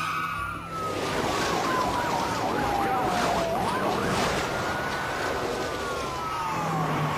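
Police car siren sounding in slow rising and falling wails, with a fast warbling yelp for a couple of seconds in the middle, over heavy vehicle and road noise during a high-speed pursuit.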